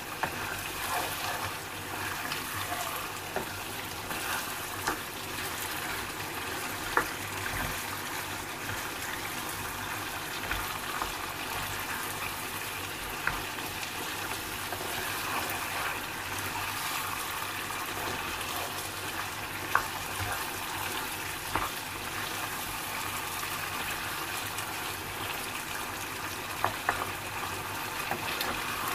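Lamb and potato curry sizzling steadily in hot oil in a frying pan over a high flame as it is bhuna-fried, stirred with a spatula that clacks against the pan a few times. This is the stage of frying the masala until the oil separates.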